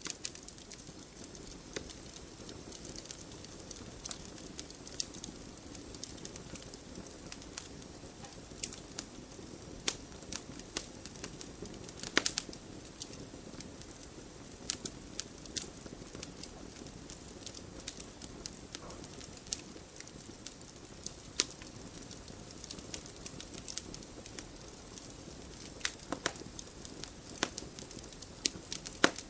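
Wood fire burning in a fireplace: a steady low rumble of flames with frequent sharp crackles and pops, the loudest pop about twelve seconds in.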